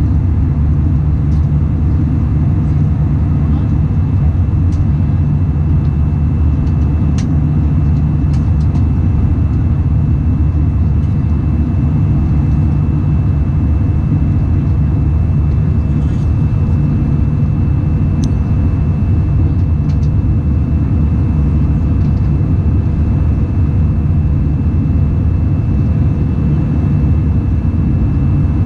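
Steady, loud drone of jet engines and airflow heard inside the passenger cabin of an Airbus A319 airliner during its takeoff and climb. A thin, steady high whine sits over the low rumble, with a few faint clicks from the cabin.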